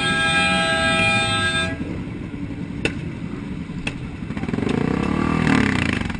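A vehicle horn held for about a second and a half, then two sharp clicks, then motorcycle engines revving up and down near the end.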